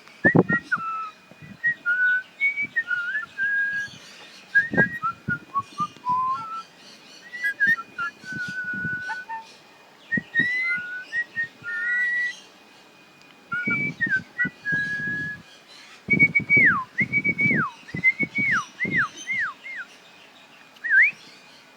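Whistling: a long string of short, clear whistled notes that hop between middle and high pitches, then about five quick downward swoops and a final upward note near the end. Dull knocks or taps come in among the notes and are the loudest sounds.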